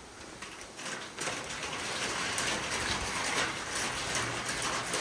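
Heavy rain pouring down in a thunderstorm, getting heavier about a second in and then staying steady.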